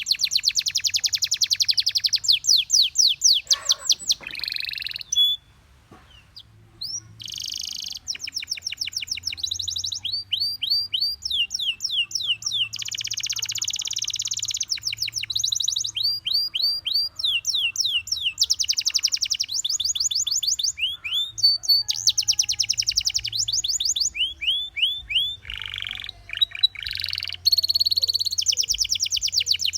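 Gloster canary singing a long song of fast trills and rolls made of rapidly repeated high notes, with a brief pause about five to seven seconds in.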